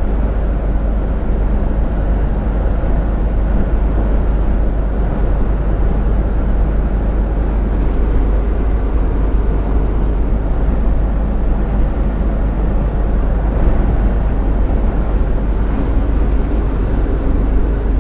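Steady drone of a truck driving on the highway, heard from inside the cab: engine rumble mixed with tyre and wind noise, with the truck in a strong crosswind.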